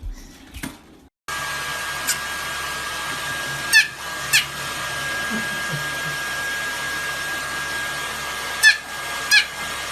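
Electric blow dryer running steadily with a thin high whine, switching on abruptly about a second in. Four short, sharp high chirps that drop in pitch cut through it, in two pairs.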